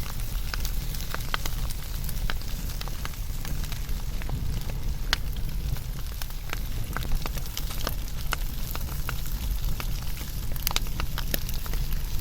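Wood fire burning: irregular sharp crackles and pops, several a second, over a steady low rumble.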